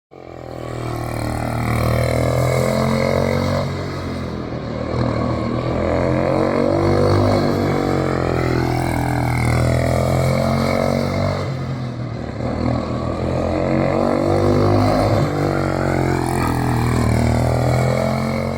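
Small youth race car's engine running on track, its pitch rising and falling as it goes round, with two dips in level.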